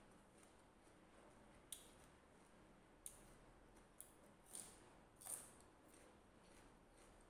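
Faint eating sounds: five short, crisp clicks and crunches spaced about a second apart, the last two a little longer and the loudest, over low room noise.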